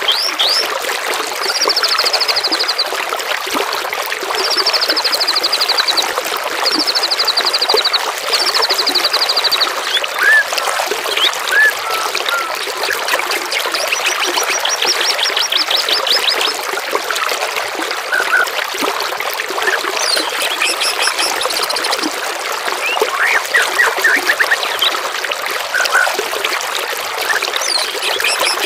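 Running water trickling steadily, with songbirds calling over it: a series of short, rapid high trills and scattered single chirps.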